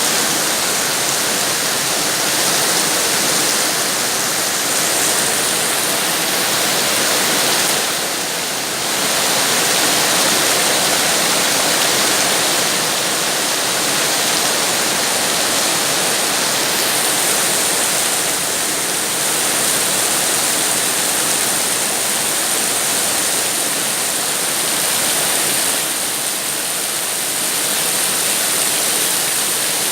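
Steady rain falling, a dense even rushing hiss that swells and eases slightly now and then.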